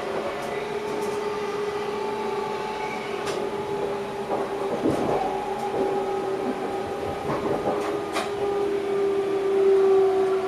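Electric passenger train running, heard from inside the driver's cab: a steady whining tone over the rumble of the ride, with scattered sharp clicks and knocks from the track. The whine grows louder near the end.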